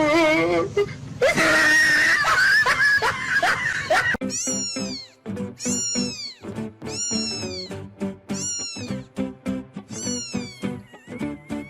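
A cat yowling with a wavering pitch for about the first four seconds. Then rhythmic background music takes over, with plucked low notes and repeated falling, whistle-like swoops.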